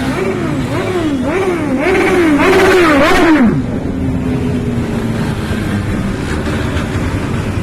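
Motorcycle engine revved in quick repeated throttle blips, about two a second, each rising and falling in pitch. About three and a half seconds in, the revving stops and the engine drops back to a steadier, lower note that slowly falls.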